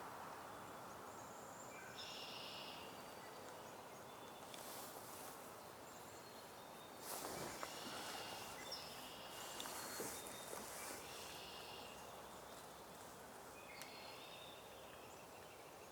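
Faint short nasal calls of white-breasted nuthatches, in a few separate groups of notes, over a steady woodland background hiss.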